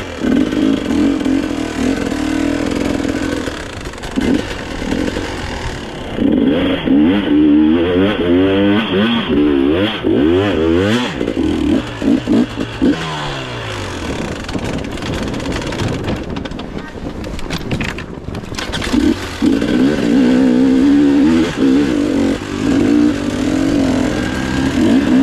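Enduro motorcycle engine revving up and down hard as it is ridden, with the hardest run of revs about a quarter of the way in, revs dropping away around the middle, and another burst of revs near the end.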